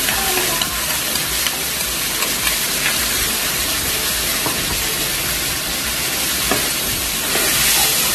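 Sardine tomato sauce sizzling in hot oil in a nonstick frying pan as it is poured in and stirred with a metal slotted spatula. The sizzle is steady, with a few light scrapes of the spatula, and it flares louder with a puff of steam near the end.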